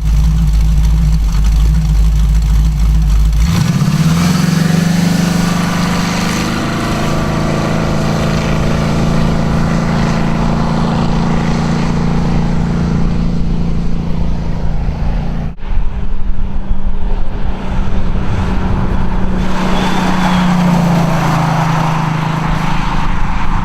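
1968 Camaro's 400 cubic-inch small-block V8 running through long-tube headers and dual exhaust. About three and a half seconds in, the engine note rises and then holds steady at higher revs, easing down slightly near the end.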